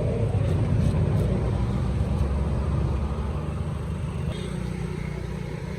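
A motor engine running steadily with a low rumble, slowly growing fainter through the second half.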